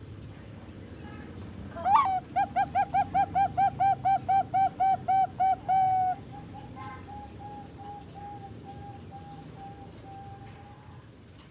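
Young Bangkok-type zebra dove (perkutut) cooing: a rising note about two seconds in, then a fast, even run of about fourteen loud coos, then a softer trail of drawn-out notes at the same pitch that fades out near the end.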